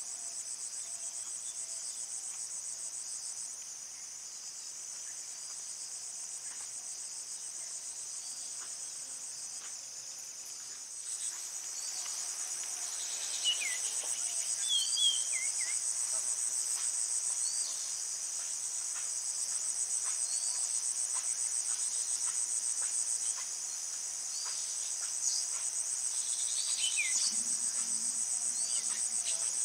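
Steady, high-pitched insect chorus with a fast pulsing trill, growing louder about a third of the way in. A few short, sweeping chirps sound over it, mostly around the middle and near the end.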